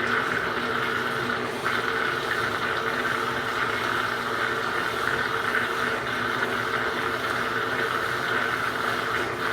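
Washing machines running, with a drain pump humming steadily as the wash water drains out near the end of the drain stage. The hum dips briefly about a second and a half in.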